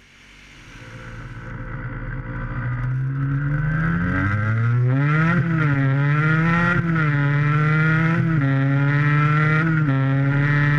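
Race car engine accelerating: the sound fades in and its pitch climbs over the first few seconds, then drops and climbs again several times, as with gear changes or lifting off for corners.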